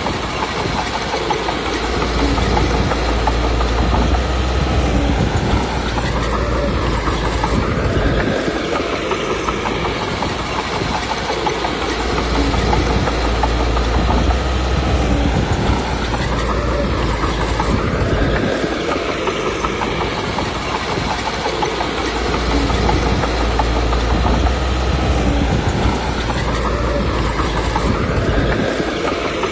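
Komatsu D21P crawler bulldozer's diesel engine working with clanking steel tracks, its low drone swelling and easing in a repeating cycle about every ten seconds as the machine works the load.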